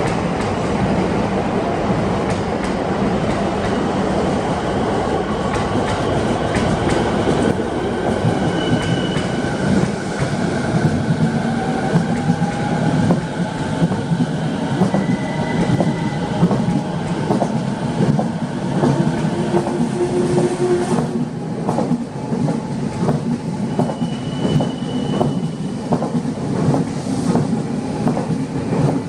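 Rinkai Line 70-000 series electric train running on the track, its wheels clacking steadily over rail joints, with a few brief high-pitched squeals.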